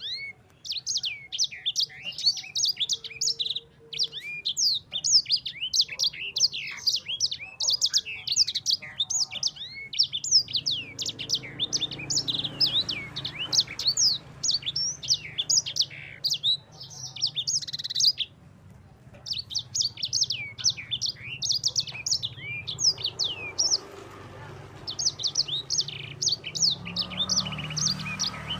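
Sanger songbird singing a fast, continuous chattering song of rapid high chirps and trills, breaking off briefly a few times. A faint low hum runs underneath.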